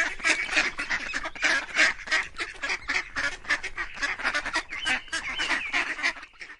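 A group of ducks quacking: many rapid, overlapping calls that cut off suddenly near the end.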